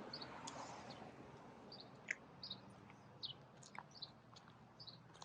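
Faint small-bird chirps: many short, high chirps at irregular intervals.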